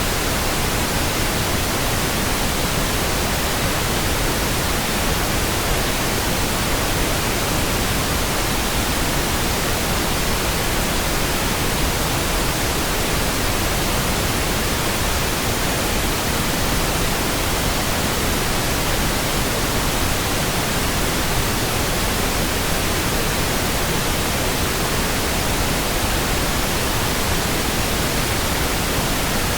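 Steady pink noise: an even, unbroken hiss spread across the whole range of pitch, with no changes or sudden sounds.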